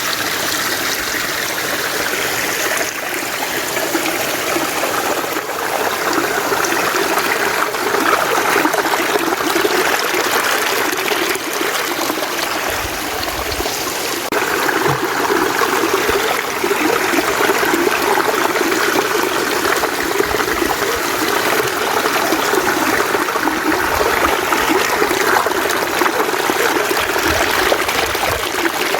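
Mountain stream running steadily over rocks, a continuous rushing and trickling of flowing water.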